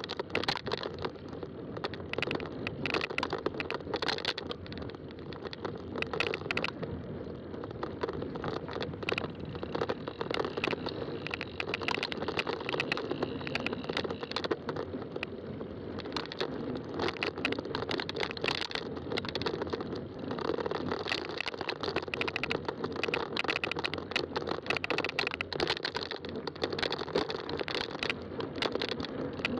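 Fat-tire bike rolling along a trail: steady tyre noise with a constant patter of small clicks and rattles.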